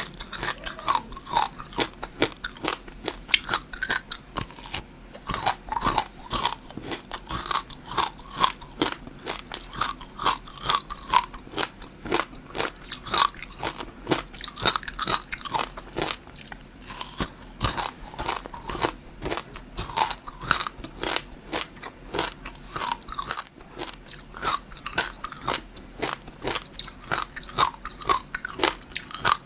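Close-miked eating: repeated crunchy bites and chewing, a quick string of sharp crackles and clicks.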